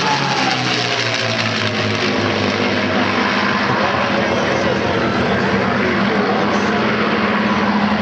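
Three P-51 Mustangs' piston engines droning in a formation flypast. The engine note falls in pitch during the first second as the aircraft pass, then holds steady.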